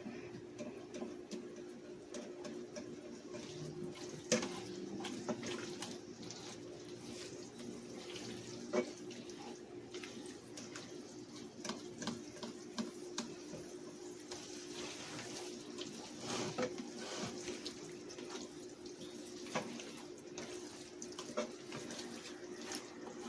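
Chicken hearts and onions sizzling in oil in a frying pan, with scattered clicks and scrapes of a utensil stirring against the pan. A steady low hum runs underneath.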